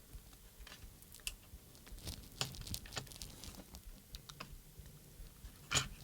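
Faint, irregular small clicks and taps as the gimbal wires and small parts are handled and fitted inside an opened radio transmitter, with one sharper click near the end.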